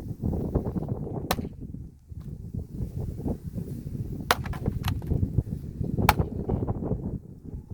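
Wood being split by hand: four sharp cracking blows, the last the loudest, over steady wind noise on the microphone.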